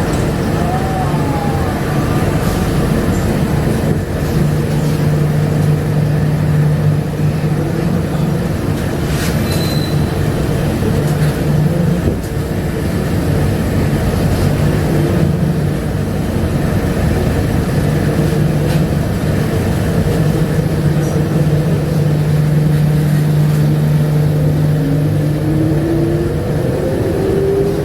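Bombardier APM100 rubber-tyred LRT car running along its guideway, heard from inside: a steady rumble of tyres and running gear with a low drive hum. Near the end a whine rises in pitch.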